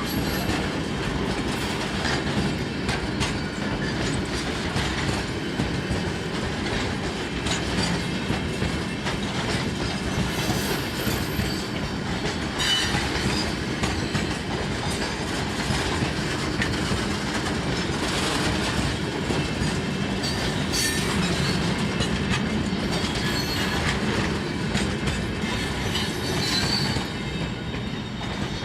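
Freight train wagons rolling past, wheels clattering over the rail joints, with short bursts of wheel squeal several times along the way.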